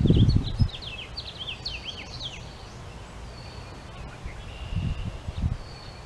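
A songbird sings a quick run of high, down-slurred chirps over the first two seconds or so, with a few thin whistled notes later. Low rumbles come near the start and again about five seconds in.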